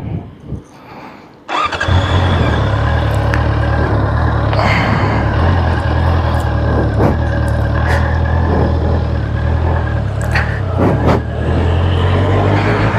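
Honda CBR650R's inline-four engine starting about a second and a half in, then running steadily.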